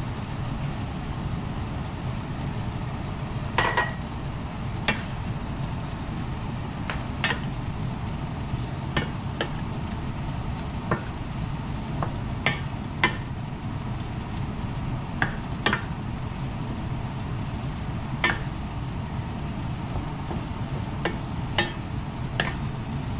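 A utensil stirring a vegetable sauce in a pan, knocking against the pan in irregular sharp clicks over a steady low rumble.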